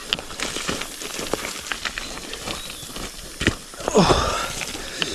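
Footsteps crunching and snapping through leaf litter and twigs on a steep forest trail, in irregular clicks and crackles. About four seconds in there is a brief breathy voice sound that falls in pitch.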